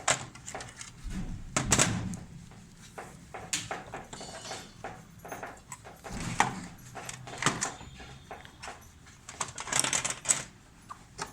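Irregular clicks, knocks and rattles of hands and tools working on a washing machine's timer panel, with a few louder clatters about 2, 6, 7 and 10 seconds in.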